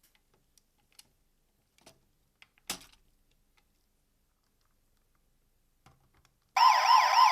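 Faint clicks of plastic toy parts being handled and fitted together, with one sharper snap a little under three seconds in. Near the end a loud electronic warbling sound starts, wavering rapidly up and down like a siren.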